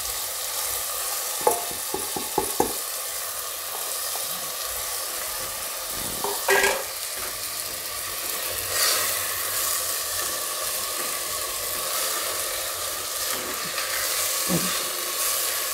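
Washed rice and moong dal sizzling in hot ghee in a pressure cooker, stirred with a silicone spatula. A few sharp clinks about two seconds in as the steel bowl is emptied, and a single louder knock about six seconds in.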